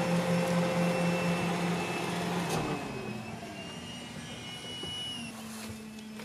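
Car engine running with a steady hum and a faint high whine. The hum shifts up in pitch about two and a half seconds in and again about five seconds in.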